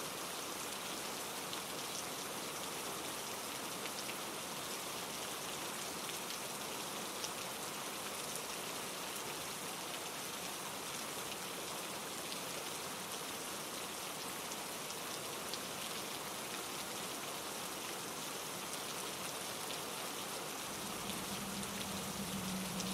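Steady rain falling, an even hiss with a fine patter of drops. A low hum comes in near the end and grows louder.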